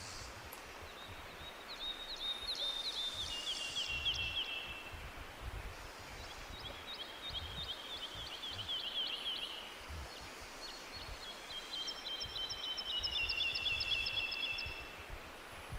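A songbird singing three songs, each a fast run of short chirping notes that steps down in pitch over about three to four seconds, over a steady low background rumble.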